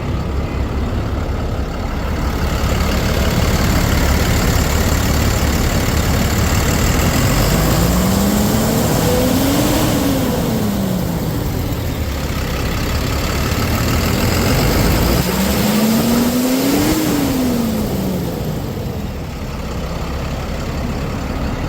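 Cummins 6.7 L six-cylinder diesel of a Ford F750 truck running, revved up and let back down twice, each rev rising and falling over about four seconds.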